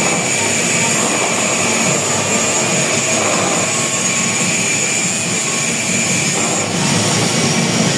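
Steady machine-shop noise: machinery running with a constant whine over a dense rushing noise, unchanging in level.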